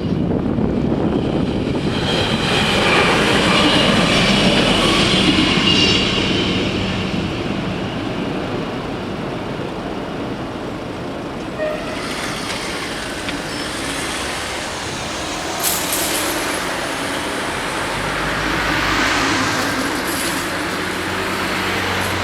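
DB Class 646 diesel railcar passing over a level crossing, loudest a few seconds in and then easing off, with a few sharp clicks later on.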